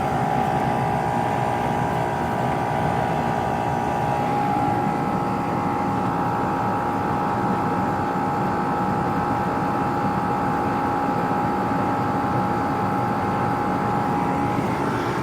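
2006 Rheem Classic central air conditioner's outdoor condenser unit running steadily: the condenser fan blowing and the compressor humming, with a steady whine over the rumble.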